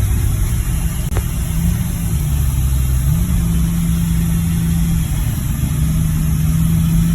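Jeep engine running steadily while driving, with a low road rumble; the engine's pitch steps up a little about three seconds in.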